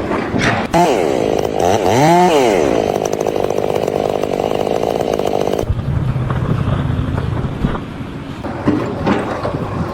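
A small engine revving up and down twice, then running steadily at high speed before cutting off abruptly; after that comes a lower, rougher hum with a few knocks.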